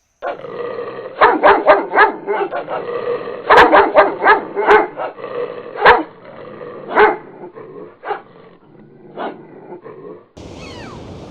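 A dog barking repeatedly, in quick runs of sharp barks at first, then spaced out and fainter until it stops near the end.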